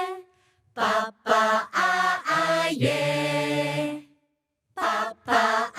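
A voice chanting a character's name a cappella: a few short sung syllables, then a long held note, a pause, and two more short syllables near the end.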